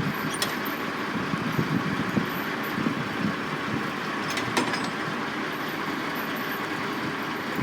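Racket of heavy construction machinery: diesel engines running steadily, with two sharp clicks, about half a second in and again about four and a half seconds in.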